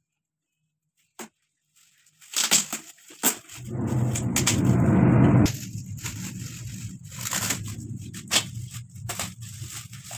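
Gift wrapping being torn and crumpled open by hand, with paper rustling and crackling. A loud tearing stretch comes about three and a half seconds in and lasts about two seconds, then the rustling and sharp crackles go on.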